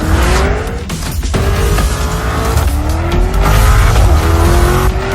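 Lamborghini Urus twin-turbo V8 accelerating hard, its pitch climbing and dropping back at each upshift, several times.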